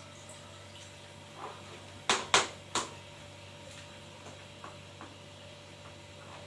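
Three sharp clacks of hard kitchenware being handled, close together a little over two seconds in, followed by a few light ticks, over a steady low hum.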